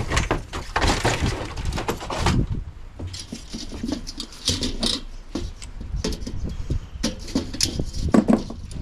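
Plastic and metal fridge parts being handled and pulled apart: rustling and clattering, busiest in the first two seconds, then scattered knocks and clicks.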